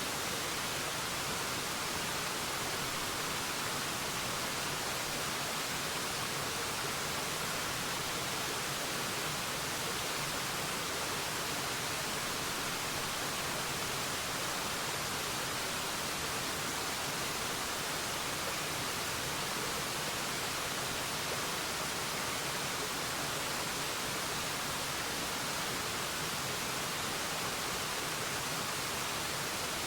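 Forest waterfall: a steady, even rush of falling water, unchanging throughout.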